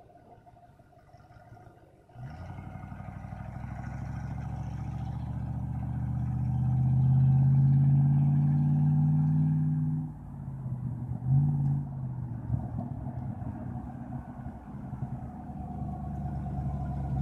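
Straight-piped Magnum V8 exhaust on a bus, starting suddenly about two seconds in and rising in pitch and loudness as it accelerates. It drops off sharply near the middle, gives a short blip, then runs lower and builds again near the end.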